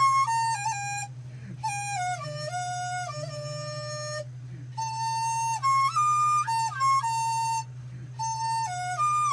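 Dizi (Chinese bamboo flute) playing a melody of held notes linked by short slides, with brief breaks about a second in, around four seconds in and near eight seconds. A steady low hum runs underneath.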